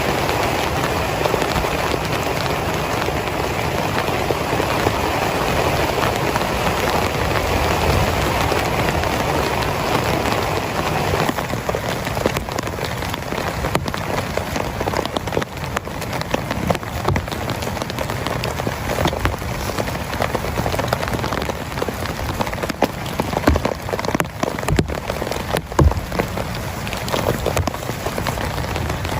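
Heavy rain falling on a tent, a dense steady patter. About ten seconds in it thins slightly into more distinct drop strikes, with a few louder heavy drips near the end.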